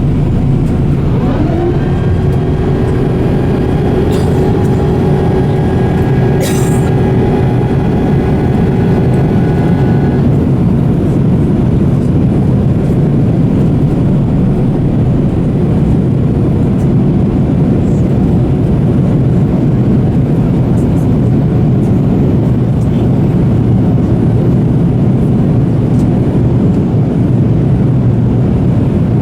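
Steady low rumble of an airliner heard from inside the cabin. A mechanical whine rises quickly about a second in, holds steady, and cuts off about ten seconds in.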